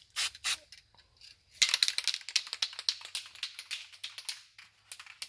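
A few single clicks, then about three seconds of quick, irregular clicking and rattling of small hard objects.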